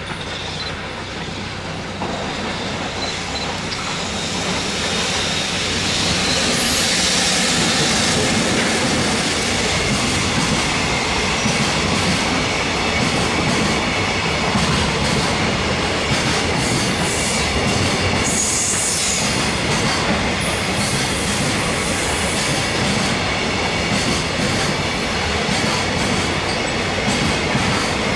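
Electric-hauled container freight train passing close by. The steady rumble of wagon wheels on the rails grows louder over the first several seconds as the locomotive nears, then holds as the wagons roll past. The wheels clatter over the rail joints, with a few brief high squeals.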